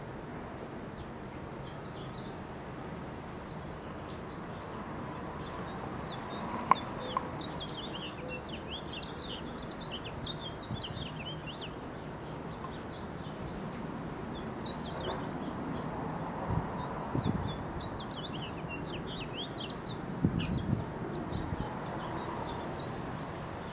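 Birds calling: two long runs of quick, high chirps over a steady background hiss, with a few soft knocks in between.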